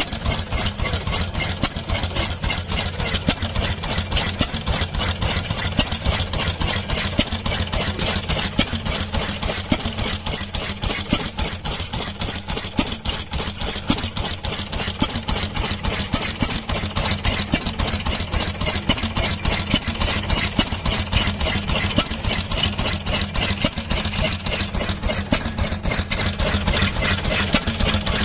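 Sarin stationary petrol engine running steadily, its firing strokes making an even, rapid beat that does not change.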